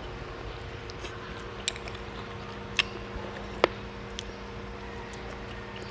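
Close-miked chewing of fish and rice, with a few sharp clicks about one and a half, three, and three and a half seconds in, over a faint steady hum.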